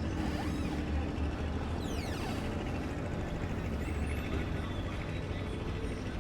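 Steady low engine rumble with a few high, falling whistle-like calls about two seconds in and a short rising one near the middle.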